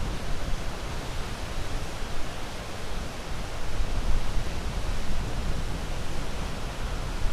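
Ocean waves washing on the shore: a steady surf rush that swells gently and eases off.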